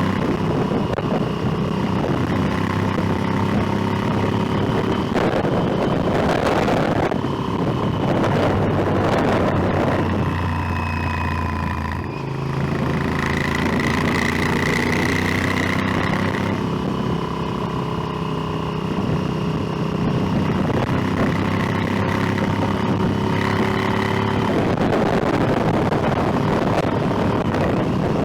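Motorcycle engine running steadily under way, with wind and road noise over it. About twelve seconds in the engine note drops briefly, then settles again at a new steady pitch.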